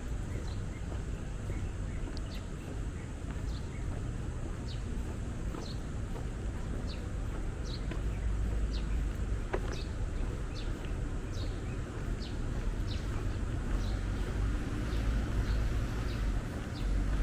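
A bird giving a short, high chirp over and over, about once a second, over a steady low rumble of outdoor city background noise.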